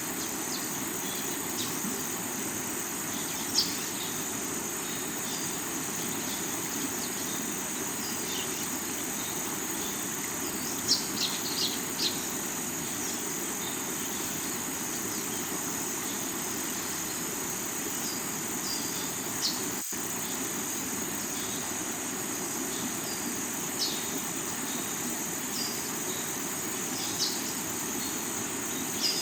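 Steady rush of water over the rocks of a river, under a continuous high trill of crickets, with short high bird chirps scattered throughout.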